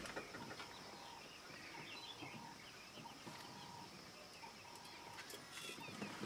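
Faint bird calls: many short chirps and twitters scattered throughout, over a steady thin high hum.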